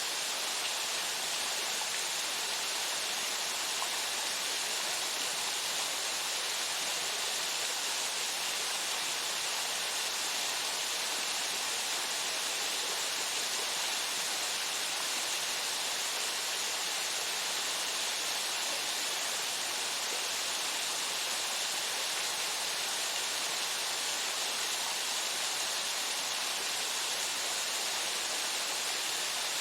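Waterfall: water falling and splashing into the plunge pool in a steady, unbroken hiss, strongest in the high range.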